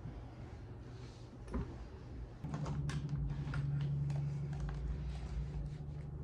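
Typing on a computer keyboard: a stray keystroke, then a quick run of keystroke clicks from about two and a half seconds in. A low steady hum comes in at the same moment.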